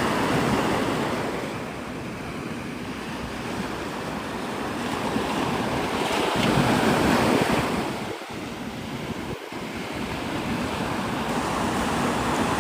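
Gulf surf breaking on the beach, swelling and ebbing as the waves come in, with wind on the phone's microphone.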